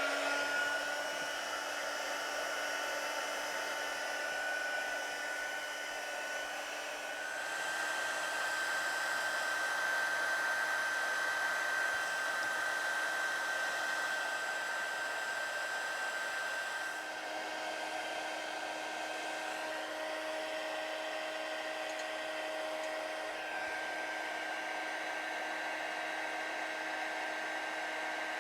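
Handheld hot-air blower switched on with a click and running steadily, its motor whine stepping slightly in pitch a few seconds in and again past halfway. It is heating old brittle pinstripe tape on a petrol tank to lift it off.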